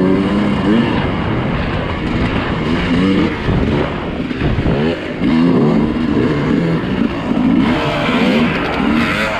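Dirt bike engine revving up and down over and over as the bike is ridden off-road, its pitch rising and falling every second or so, with a rougher, lower stretch about four seconds in.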